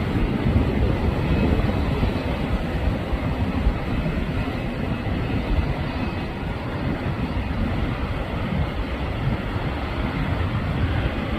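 Airliner jet engines at takeoff power: a steady, deep rumble that eases a little about six seconds in.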